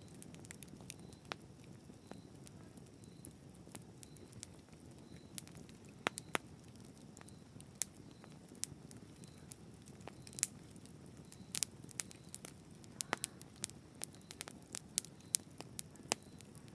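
Campfire burning: a low steady rumble of flames with scattered sharp crackles and pops from the burning wood, coming irregularly, several a second at times.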